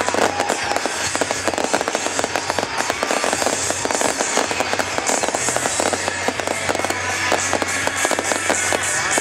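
Fireworks going off in a dense, rapid run of crackles and small bangs, with music playing along with the display.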